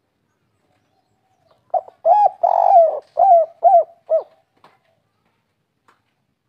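Spotted dove singing one phrase of its 'kuk 3' song: a short lead note and a coo, one longer rough note, then three short coos.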